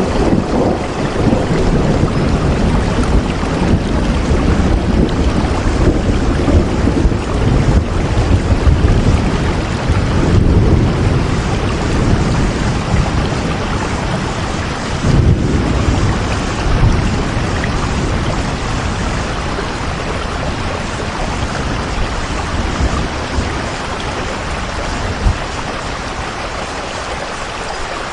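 Steady heavy rain with rolling thunder, the low rumbles swelling several times in the first half and easing off later.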